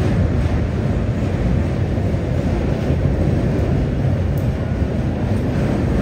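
Passenger train crossing a steel truss bridge: a steady low rumble of the wheels and running gear.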